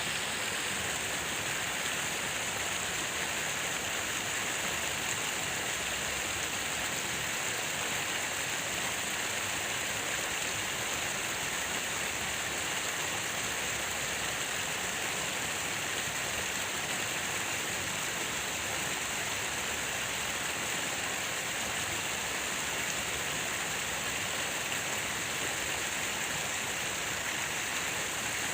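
Falling water: a steady, even rush with no breaks.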